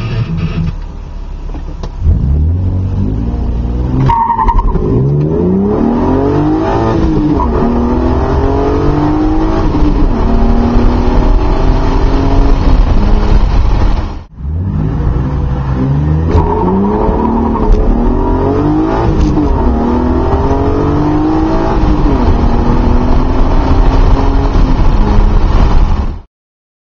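1998 BMW M3's 3.2-litre straight-six, fitted with an M50 intake manifold, Conforti intake and Eisenmann race exhaust, heard from inside the cabin as the car accelerates through the gears. The engine pitch climbs, drops at each upshift and climbs again, several times over. There is a short dropout about halfway through, and the sound cuts off suddenly near the end.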